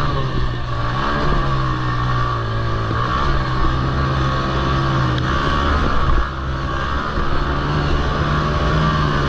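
Small single-cylinder engines of Honda TRX90 racing quads, revving up and down as they are ridden around a dirt track, with the pitch rising and falling over several overlapping engine notes.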